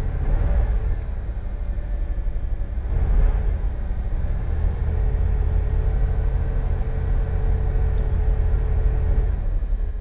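1986 Dodge Ram W250's 318 V8 running on a cold start, a steady low rumble that swells briefly about three seconds in. The engine is cold after sitting about a month in freezing weather.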